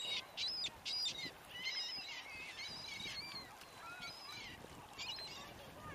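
Lakeside birds calling: a flurry of short, high-pitched calls repeated one after another, some rising and falling in pitch, over a low steady rush of wind.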